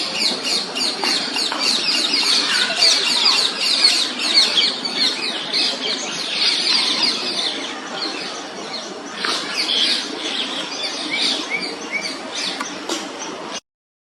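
Common myna fledglings begging for food with rapid, repeated high calls, many overlapping, until the sound cuts off abruptly near the end.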